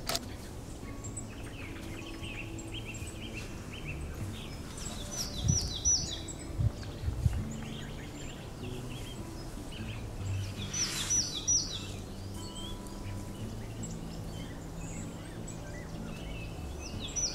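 Forest ambience with small birds calling: short runs of three or four quick, high, falling chirps, repeated every few seconds. Under them is a faint low hum, and a few dull knocks come about six seconds in.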